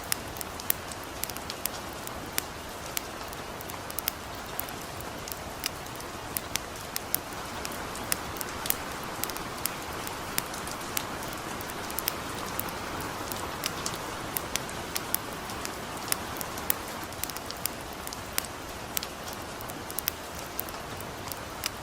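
Steady light rain with the sharp crackling of a campfire, frequent short pops scattered over the even hiss of the rain.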